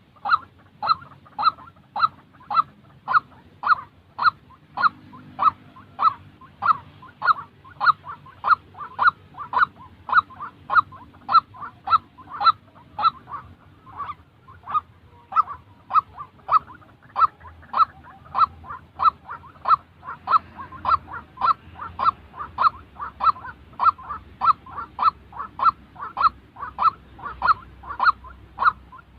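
White-breasted waterhen calling: a long, unbroken run of short, loud, evenly spaced calls, a little under two a second.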